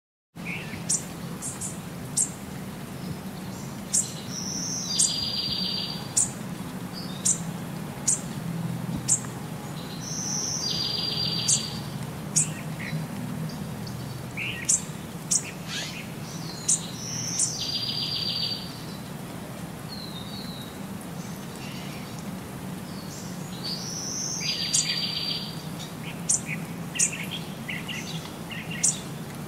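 Birds chirping and singing. One song repeats every five or six seconds as a short high note followed by a rapid trill, with sharp high chips scattered between, over a steady low hum.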